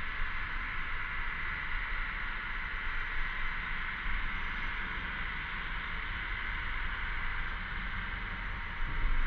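Chorus of cicadas buzzing, a steady, unbroken high drone. A low rumble underneath grows louder near the end.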